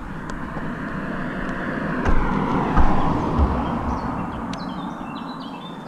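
A road vehicle passing by: its noise swells, peaks about halfway and fades away, falling in pitch as it goes past.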